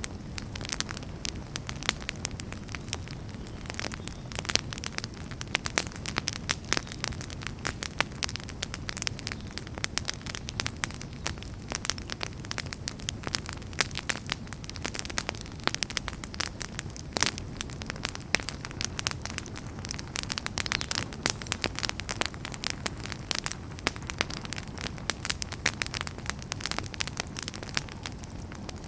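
Wood fire burning with dense, irregular crackles and pops over a steady low rumble of the flames.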